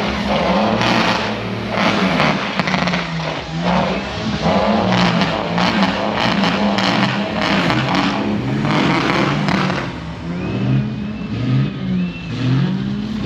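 Heavy lorry diesel engines being revved over and over, their pitch rising and falling, with more than one engine going at once. A few short rising whistles come near the end.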